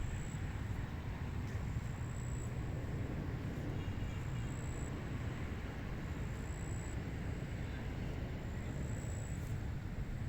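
Steady wind over a rice paddy, heard mostly as a low, even rumble with a fainter hiss above it.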